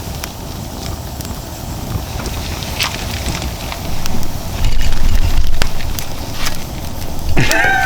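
Large wood fire burning in a metal fire pit: a steady low rushing of the flames with scattered crackles and pops of the burning logs, growing louder about halfway through.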